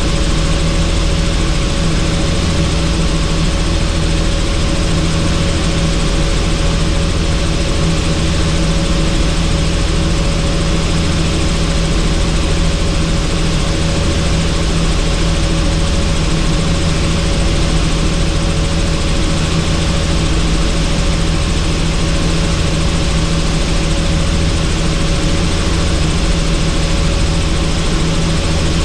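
Helicopter in steady flight, heard on board: a loud, even drone of engine and rotor, with several steady hum tones over a wide rush of air.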